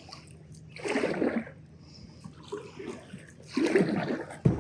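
Kayak paddle strokes splashing in the water, two strokes a little under three seconds apart, with a sharp knock near the end.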